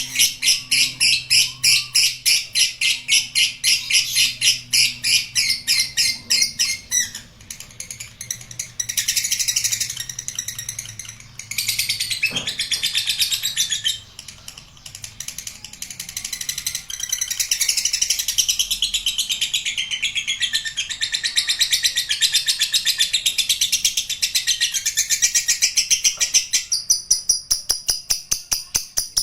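Lovebird chattering in its long 'ngekek' song: a fast run of sharp, high notes at about five a second that runs on without a break, thickening into dense twittering through the middle before falling back into the steady rapid notes near the end.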